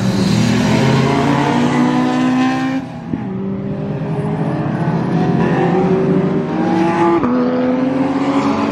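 A four-cylinder Audi TT Cup race car engine accelerating hard under full throttle. Its note rises steadily, drops sharply on an upshift about three seconds in and again near seven seconds, then climbs again after each shift.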